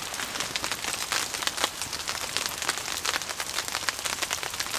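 Rain pattering steadily on a tarp shelter: a dense, even stream of small drop ticks.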